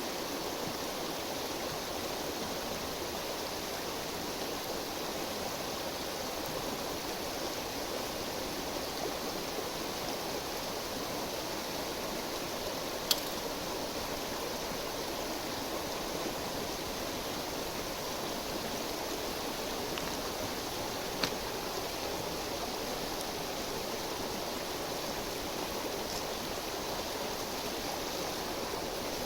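Steady rushing of a stream, with a campfire of wet firewood giving two sharp pops, one a little before the middle and one about two-thirds through, and a few faint crackles.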